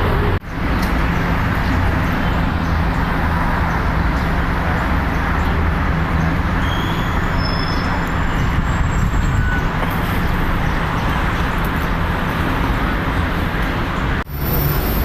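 Steady city traffic noise, a continuous rush of passing vehicles, with a few faint high chirps in the middle. The sound drops out briefly just after the start and again near the end.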